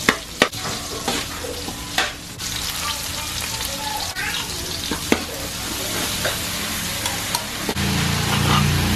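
Onions and garlic sizzling in oil in a large aluminium wok, while a metal spatula stirs and scrapes, clinking sharply against the pan a few times. A louder low hum comes in near the end.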